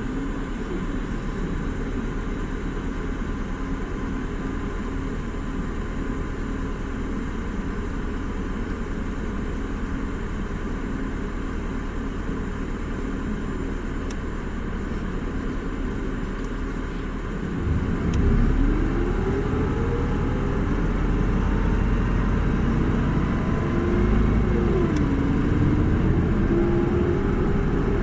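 Isuzu Erga 2PG-LV290N2 city bus's four-cylinder turbo-diesel running steadily at a low, even pitch, then from about 18 seconds in getting louder as the bus pulls away and accelerates. The engine pitch climbs, drops back at a gear change a few seconds later, and climbs again.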